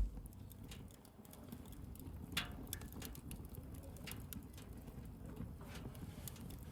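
Wood bonfire crackling: irregular sharp pops and snaps, with a louder crack about two and a half seconds in, over a low steady rumble.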